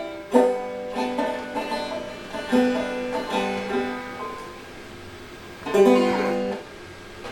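A plucked acoustic string instrument picking a short run of notes and chords, then falling quiet before one more strummed chord about six seconds in that rings briefly and stops.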